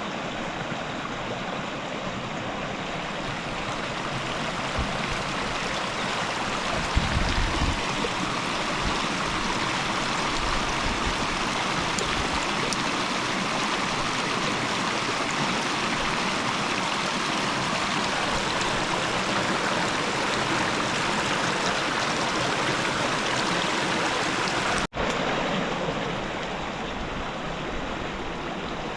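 River water flowing and rushing steadily, growing slightly louder through the middle. The sound drops out for an instant near the end.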